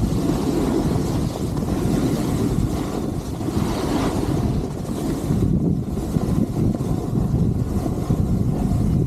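Wind buffeting the microphone of a skier heading down a groomed run: a steady low rumble, with a brief brighter hiss about four seconds in.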